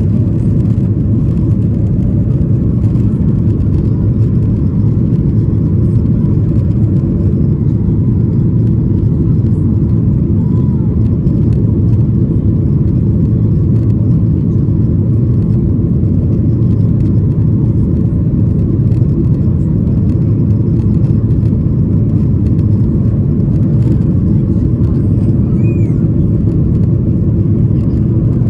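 Steady, loud low rumble of a Boeing 737-800's CFM56-7B jet engines, heard from inside the passenger cabin.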